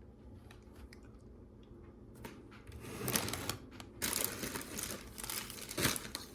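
Plastic bags of LEGO pieces crinkling and rustling as they are handled, with a few small clicks of plastic parts; it starts sparse and gets busier about halfway through.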